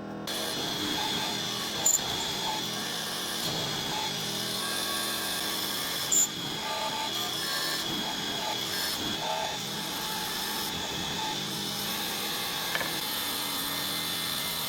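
A handheld power tool running steadily while working wood, with a constant high whine, and two sharp knocks about two and six seconds in.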